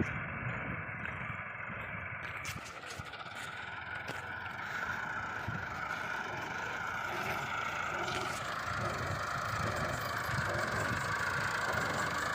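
Tractor-driven wheat thresher running: a steady machine din with rattling clatter and the tractor engine under it, with a single sharp knock right at the start.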